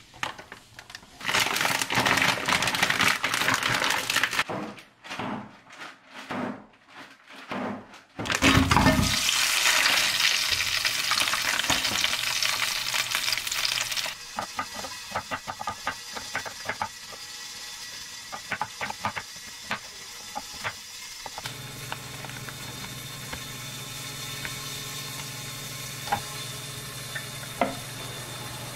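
Chicken breast pieces tipped from a plastic pouch into a hot frying pan, sizzling loudly as they land, then frying with crackles and the clicks of stirring. Before that come a few seconds of loud noise and several separate knocks. A steady low hum takes over for the last several seconds.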